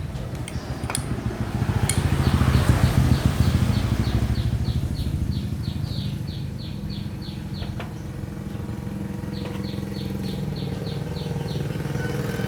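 A small petrol engine running steadily, its note swelling a couple of seconds in and then holding. It cuts off abruptly at the end.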